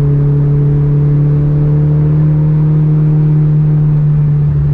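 Mitsubishi Lancer Evolution's turbocharged four-cylinder engine and exhaust droning at a steady cruise, one low note holding without any change in revs.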